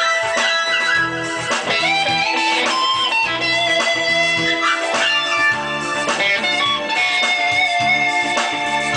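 Electric guitar music: a lead line of held notes with string bends over a lower accompaniment.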